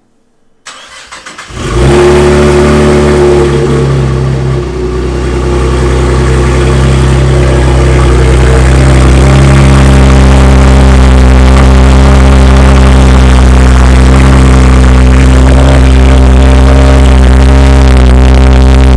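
Supercharged V6 Camaro cold start through an aftermarket single-tip exhaust: the starter cranks for about a second, the engine catches with a burst, then settles into a loud, steady cold idle.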